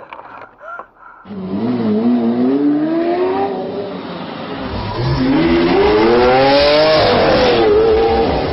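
Car engine revving hard under acceleration: its pitch climbs, drops about halfway through, climbs again and falls back about seven seconds in, as with gear changes.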